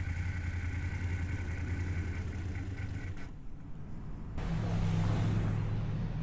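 Motorcycle engine running under way, with a steady, fast pulsing; a little past four seconds in, it gives way to a steadier low hum with more wind and road hiss.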